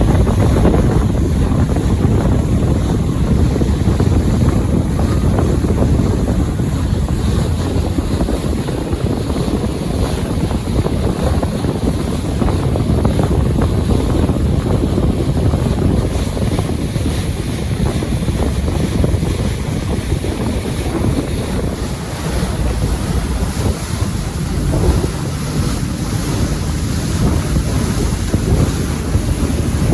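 Wind buffeting the microphone in gusts over the wash of waves, a loud rumbling rush that swells and eases without pause.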